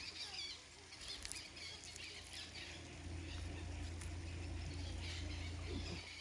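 Small birds chirping and twittering in short repeated wavy calls, over a steady low rumble.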